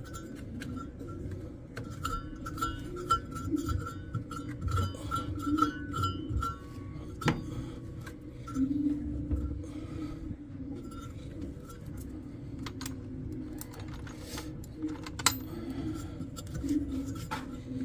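Scattered clinks and knocks of metal tools and parts being handled while working on a washing machine, over a low steady hum.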